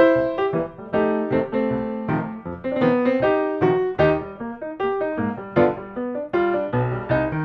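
Solo piano music: a steady stream of notes, several a second, each struck and dying away.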